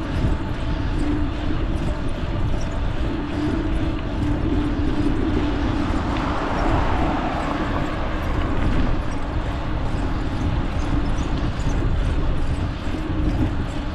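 Wind rushing over the microphone and tyre noise from a Trek bicycle rolling along a road, with a steady low hum and a swell of noise about six to seven seconds in.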